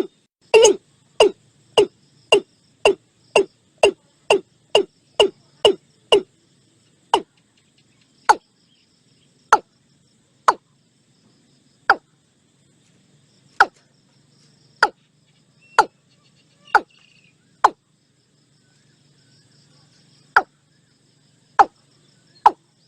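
Watercock calling: a run of short, sharp, deep notes, about two a second at first. The notes then slow to one every second or so, pause briefly near the end and quicken again.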